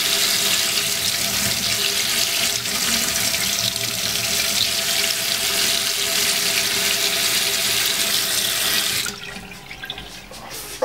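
Kitchen tap running full into a sink with a steady rush of water, shut off abruptly about nine seconds in.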